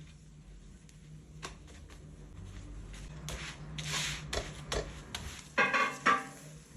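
Kitchen handling noises during lavash making: scattered clicks and brief rustles, busier after about three seconds, then two louder ringing knocks close together near the end.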